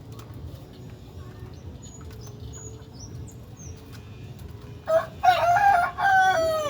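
A rooster crowing once near the end: a loud, drawn-out call in two parts that falls in pitch at its close. Faint high chirps of small birds come a little earlier.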